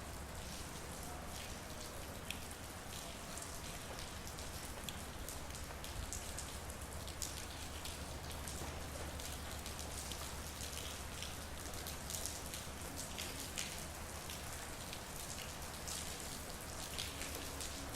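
Steady rain falling, with many separate close drops ticking through an even hiss, over a steady low hum.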